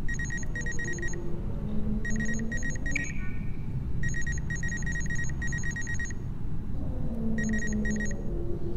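Electronic scanner beeping, as in Among Us's MedBay scan: rapid high beeps in several bursts with short gaps between them. A low hum rises and falls twice beneath it, over a steady low rumble.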